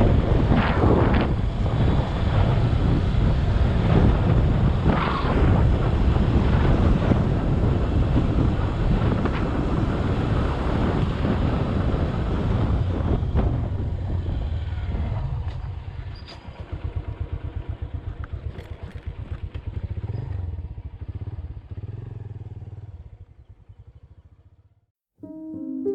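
Motorcycle riding along, its engine under a loud rush of wind on the microphone. About two-thirds of the way in it slows and the engine drops to a low, even putter, which fades and cuts off near the end.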